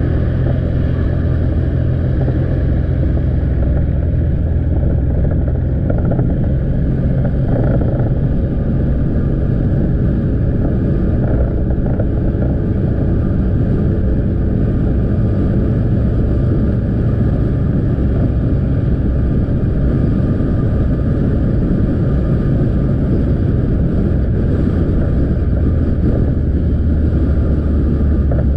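Motorbike engine running steadily while riding, with continuous road noise, heard from the rider's seat.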